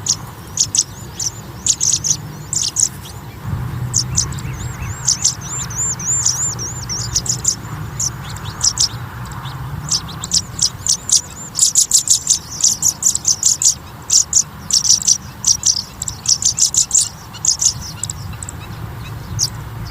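Pipit nestlings begging: rapid, high-pitched peeping chirps, with a quick wavering trill about five seconds in and the busiest chirping from about eleven to seventeen seconds.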